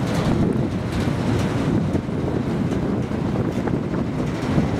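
Wind buffeting the camcorder microphone: a steady, rough low rumble.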